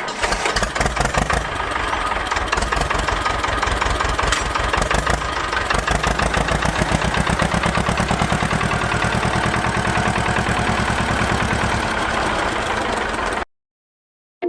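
Small engine of a DIY mini tractor running with a rapid, even firing rhythm, then cutting off suddenly near the end.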